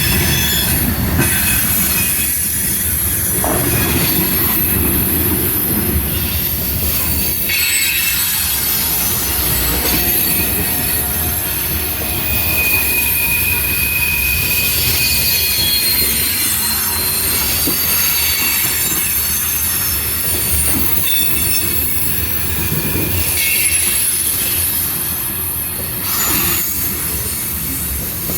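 CSX freight train rolling past: a steady rumble of the cars on the rails, with high, thin wheel squeal that comes and goes.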